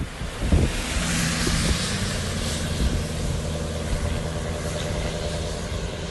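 A motor vehicle engine running steadily, with a rushing hiss over it.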